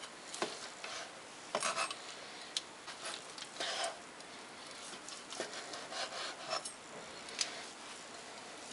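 Knife slicing broiled chicken breasts on a cutting board: irregular scraping strokes through the meat, with light taps of the blade on the board.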